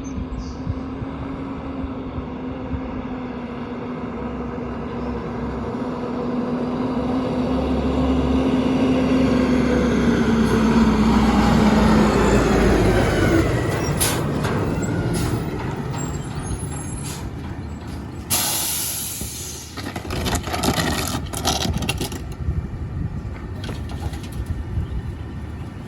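Garbage truck's engine and hydraulic packer working under load: a steady running tone grows louder for the first dozen seconds, then sags in pitch and fades. Scattered knocks and clanks follow, with a sharp hiss of air about eighteen seconds in.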